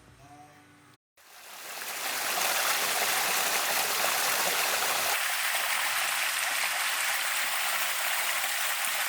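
Faint music ends with a sudden cut about a second in; then a steady rush of running water fades in and holds.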